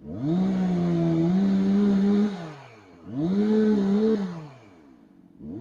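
Gas chainsaw revved up to full throttle and held about two seconds, dropped back to idle, revved again for about a second, then revved up once more near the end.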